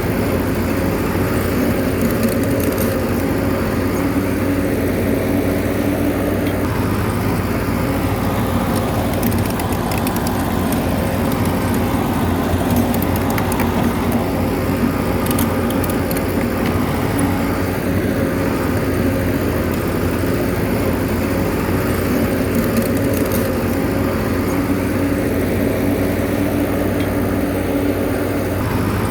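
Bulldozer's diesel engine running steadily at a constant pitch, with faint clicks now and then.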